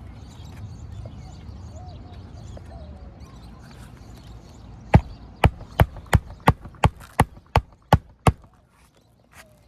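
A hammer striking about ten times in a steady rhythm, roughly three blows a second, starting about five seconds in: nailing down asphalt roof shingles in a repair test.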